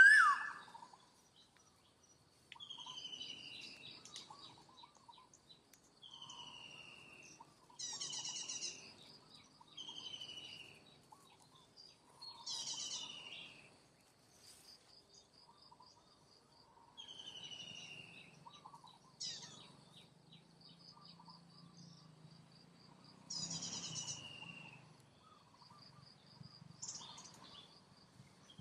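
A bird repeats a short falling whistle about every two seconds, with a harsher, buzzier call a few times. Under it runs a faint steady high insect drone, and a loud short cry comes right at the start.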